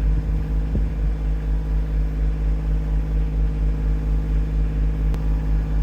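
Tractor engine running steadily, with a single sharp click about five seconds in.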